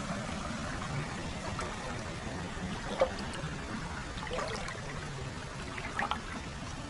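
Hot-spring water flowing continuously into a foot bath: a steady trickle and pour, with a few brief splashes.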